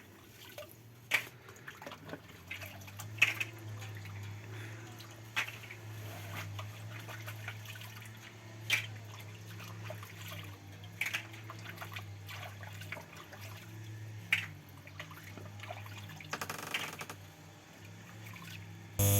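Water sounds: scattered drips and small splashes every second or two, over a steady low hum.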